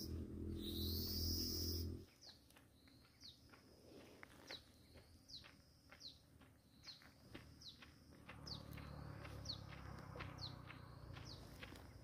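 A bird chirping over and over: short, high notes that fall in pitch, about two a second. It follows a louder passage with a steady low drone that stops abruptly about two seconds in. A low rumble joins the chirps from about eight seconds in.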